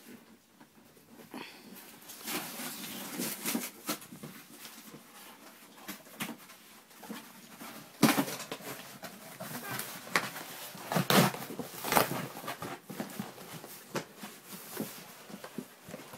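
Wrapping paper and a taped cardboard box being torn open and rustled as a large present is unwrapped, in many short rips and crackles. The loudest tears come about halfway through and again a few seconds later.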